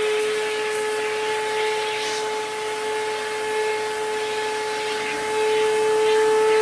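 Lathe running with a steady whine while its cutter turns a wooden snare drum shell, the scraping of the cut coming and going over the motor tone. It gets a little louder about five seconds in.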